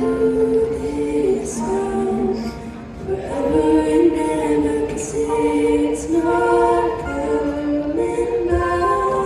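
Choir singing a cappella without words, in held chords that move to new notes about once a second.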